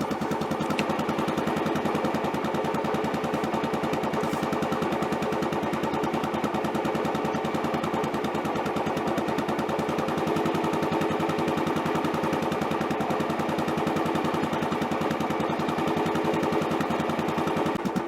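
Royal Enfield Bullet BS6 single-cylinder engine running at a steady idle, its exhaust giving the even, rapid 'dug dug' thump of one big cylinder firing.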